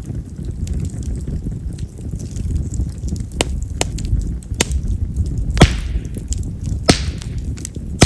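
Wild cherry (yamazakura) firewood burning in an open fire: a steady low rumble of flames with a handful of sharp crackling pops. The loudest pop comes about halfway through and is followed by a brief hiss.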